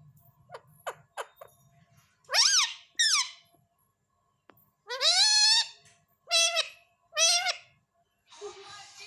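Pet parrot calling: a few faint short chirps, then five loud, high-pitched squawking calls with bending pitch, the third longer and rising.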